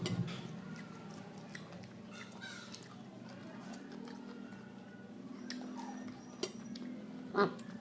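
Close-up mouth sounds of a man eating stir-fried water spinach by hand: soft chewing and lip smacks, with two sharper smacks near the end.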